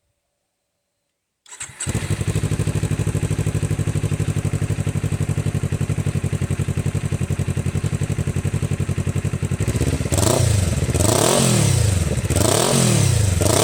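A 2020 Kawasaki Ninja 400's parallel-twin engine starts about a second and a half in and idles steadily through a cheap aftermarket slip-on exhaust with its dB-killer baffle fitted. Near the end the throttle is blipped three times, the revs rising and falling each time.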